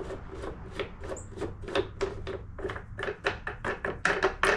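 A quick series of short scraping or rasping strokes, louder and closer together near the end, over a steady low hum.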